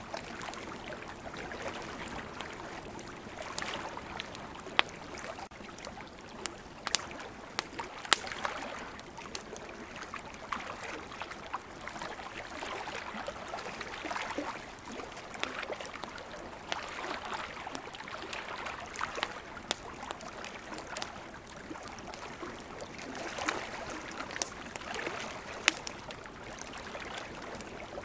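Wood campfire crackling, with frequent irregular sharp pops over a steady hiss.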